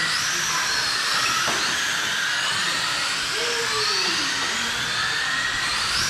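Several RC dirt oval cars with 21.5-turn brushless electric motors running on the track, a high-pitched whine of motors and gears that rises and falls in pitch as the cars speed up and slow down.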